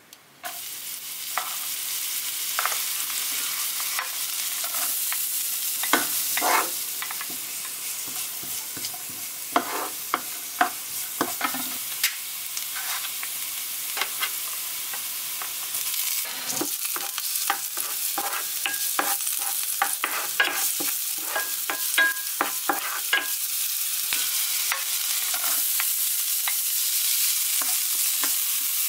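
Minced garlic sizzling in hot oil in a ceramic-coated frying pan; the sizzle starts abruptly just after the start as the garlic goes in. A wooden spoon scrapes and taps against the pan while stirring, and near the end the sizzle grows brighter as diced carrots go in.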